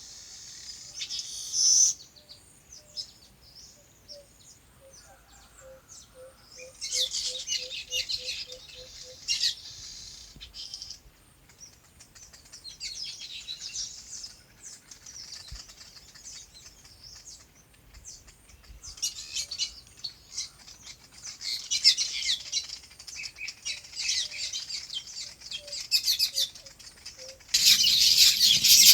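A flock of small birds chirping in repeated bursts of quick, high notes, with quieter gaps between and the loudest burst near the end. A faint, low repeated note sounds steadily for a few seconds in the first third.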